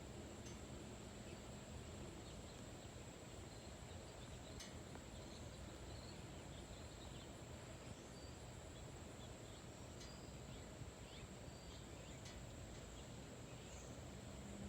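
Faint outdoor ambience: a steady low rumble under a steady high-pitched insect drone, with a few faint bird chirps.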